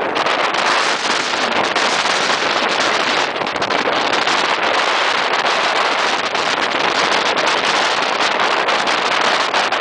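Steady loud rush of wind and water on board a racing maxi sailing yacht under way, with fine crackling throughout.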